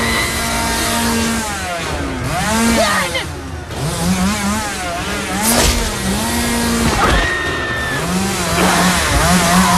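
Two-stroke chainsaw revving, its engine note held, then dropping and rising again several times.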